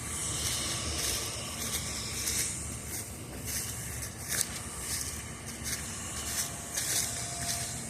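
Footsteps crunching on twigs and debris at a walking pace, with a steady low rumble underneath.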